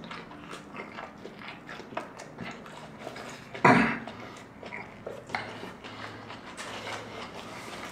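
Close-miked chewing of a crispy fried birria taco: many small wet mouth clicks and smacks, with one brief, louder mouth sound about halfway through.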